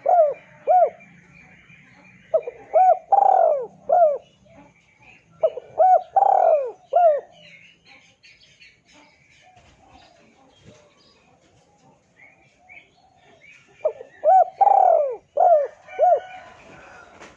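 Spotted dove cooing in short phrases of four or five coos, the middle coo longest. One phrase tails off at the start, two more follow about a second apart, and after a gap of several seconds a last one comes near the end. Faint chirps of small birds sound in between.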